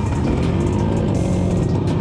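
Off-road vehicle engine running with its pitch rising and falling as the throttle changes, with music playing alongside.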